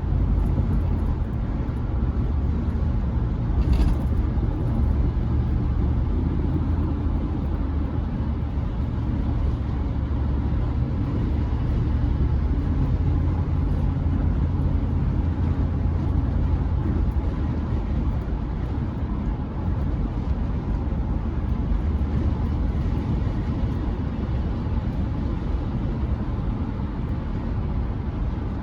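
Chevrolet C10 pickup driving, heard from inside the cab: a steady low engine and road rumble with tyre noise. There is a brief click about four seconds in.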